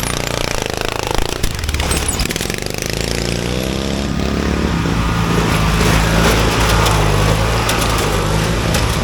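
Racing riding lawn mower's small engine running hard and revving. The pitch climbs a few seconds in, then holds steady.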